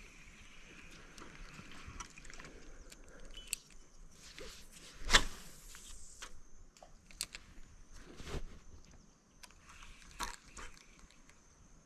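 Scattered clicks and knocks from fishing gear being handled in a small boat, the loudest a sharp knock about five seconds in and another about three seconds later. Under them runs a steady high-pitched insect chirring.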